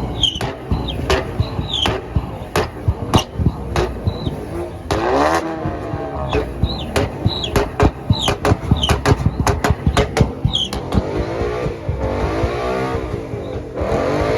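Car engines revving hard in rising and falling sweeps, with many sharp cracks and short high squeals mixed in.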